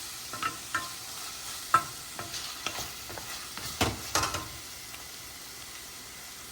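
Onion-tomato masala frying in oil in a pan, a steady sizzle with a spatula scraping and knocking against the pan as it is stirred; the loudest knocks come near the two-second mark and around four seconds in.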